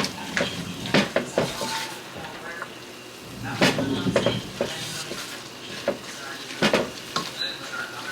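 Diced onions and ground turkey sizzling in a pot while a spoon stirs them, scraping and knocking against the pot several times.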